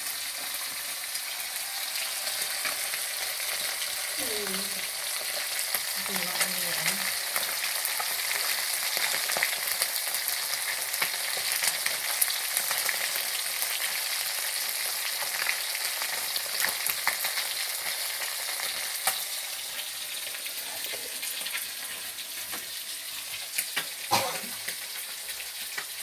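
Fish frying in hot oil in a pan: a steady sizzle with frequent sharp crackles and pops. A brief louder sound stands out near the end.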